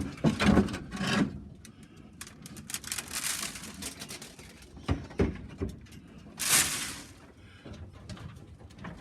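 Young pigeons in a loft feeding on a freshly thrown handful of grain: many light pecking clicks, with two brief rustling rushes about three seconds in and again near six and a half seconds.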